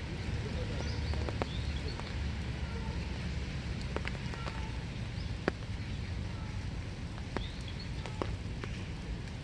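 Steady winter rain, with single drops landing as sharp taps every second or so over an even hiss and a low rumble. A few faint, short bird chirps come through high above it.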